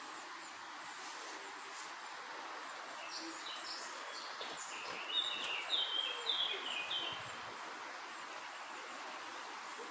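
A songbird sings a short run of quick chirping notes, about three to seven seconds in, over a steady background hiss of outdoor ambience.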